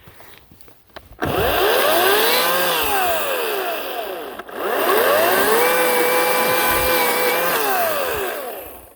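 Ryobi 18-inch battery-powered electric chainsaw running in two long bursts while cutting birch. Its motor whine climbs and then sags in the first burst, and in the second it climbs, holds steady and winds down near the end.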